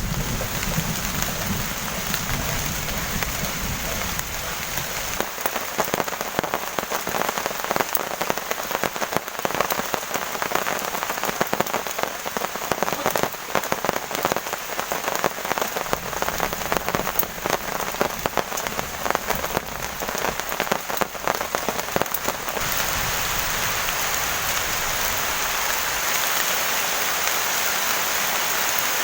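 Heavy rain falling, with many loud individual drops hitting close by. A low rumble sounds in the first few seconds, and about 22 seconds in the rain settles into a steadier, even hiss.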